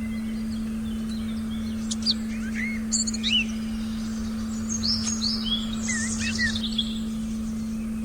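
Forest birds chirping and singing in quick rising and falling phrases, busiest from about two to seven seconds in. Underneath runs a steady, unchanging low meditation tone.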